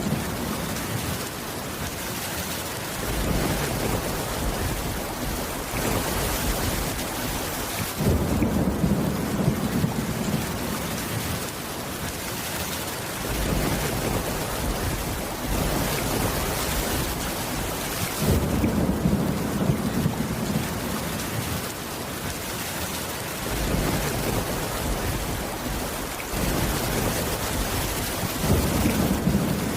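Steady heavy rain, with low rumbles of thunder swelling up every several seconds.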